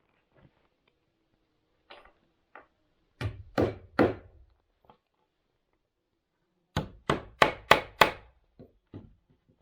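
Blows of a hand tool on wood. A group of three strikes comes about three seconds in, then a quicker run of five, about four a second, a few seconds later, with a few light knocks between.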